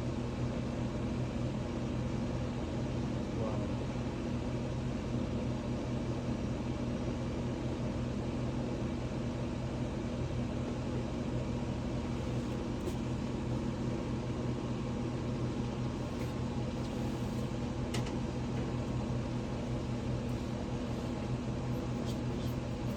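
Steady hum of running HVAC equipment: a constant low drone over an even mechanical noise, with a couple of light clicks around the middle.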